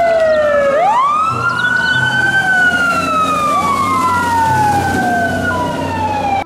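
Sirens of several fire engines wailing, their slow rising and falling tones overlapping, over the low rumble of the trucks' engines.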